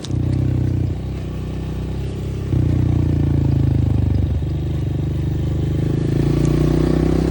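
Dirt bike engine running under throttle while riding, its level rising and falling as the throttle is opened and eased off, with a jump in revs about two and a half seconds in.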